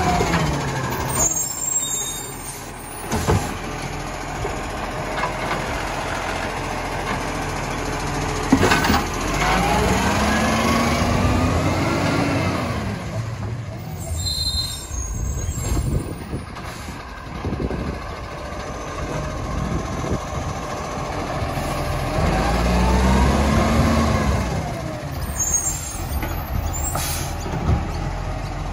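Garbage truck's diesel engine revving up and back down twice in long swells, with sharp clunks and air-brake hisses in between.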